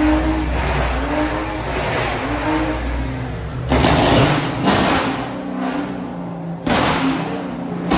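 Car engine revving again and again, its pitch rising and falling about once a second, then several sudden loud bursts from about halfway.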